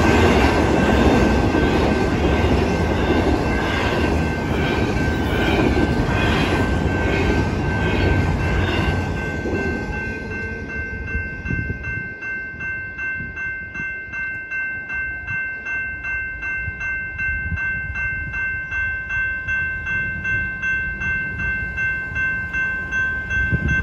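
Double-stack intermodal freight train rolling through a road crossing, its wheels and cars rumbling on the rails, with the crossing's GS Type 2 electronic bell ringing over it. About ten seconds in the train clears and the rumble fades, leaving the electronic bell ringing alone at an even two strikes or so a second.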